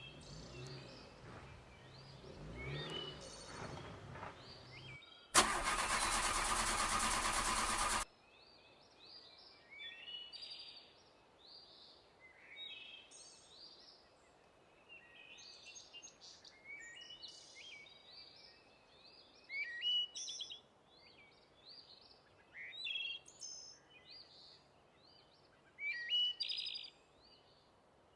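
Small birds chirping and singing in short, repeated calls, scattered through most of the clip. Before them come a low engine-like hum and then a loud rush of noise lasting about three seconds that starts and stops abruptly.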